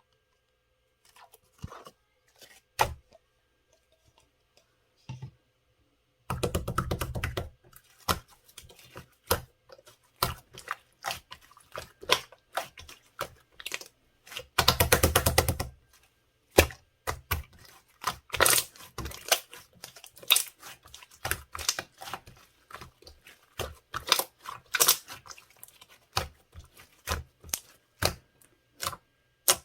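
Gold-pearl slime being pressed and played with by hand, making squishy popping clicks in irregular runs. It is mostly quiet for the first few seconds, then there are dense crackling stretches about six and fifteen seconds in.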